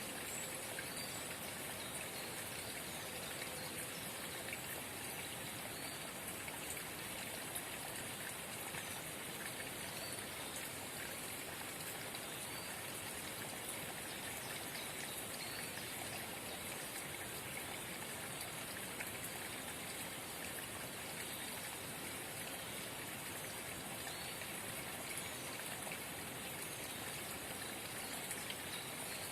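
Forest spring babbling steadily: an even, unbroken water noise with faint small splashes.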